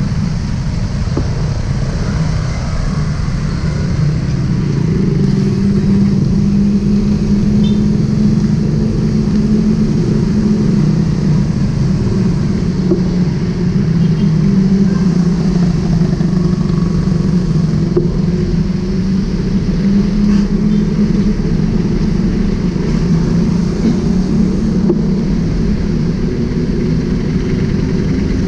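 Motorcycle engine running steadily at low speed in city traffic, heard from on the bike: a continuous low drone that rises and falls slightly in pitch, with other motorcycles and cars around.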